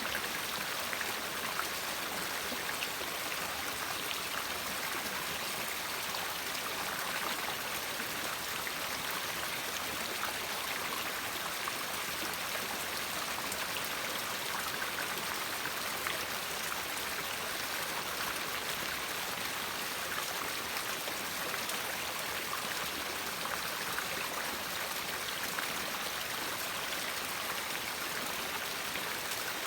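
River water flowing: a steady, unbroken rushing.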